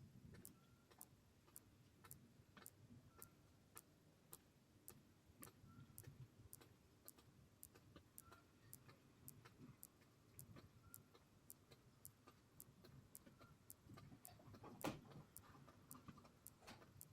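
Faint, even ticking, about two ticks a second, with a single louder knock about fifteen seconds in.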